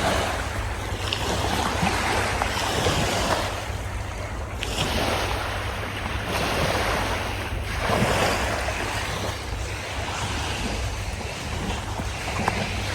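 Wind buffeting the microphone outdoors: a steady rushing noise with a heavy low rumble that swells and eases in gusts.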